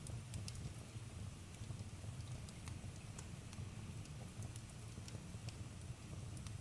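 Campfire crackling: scattered sharp pops and snaps over a low, steady rumble of burning wood.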